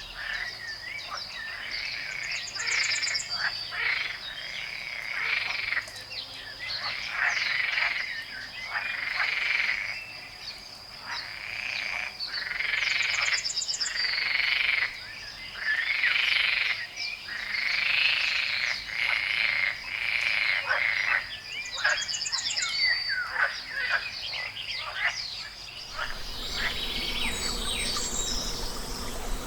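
A chorus of frogs croaking by a pond, calls following one another about every second, over a steady high insect trill. Near the end the croaking stops and a different, hissier ambience takes over.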